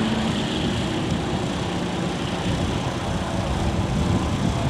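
A car running, heard as a steady, noisy rumble.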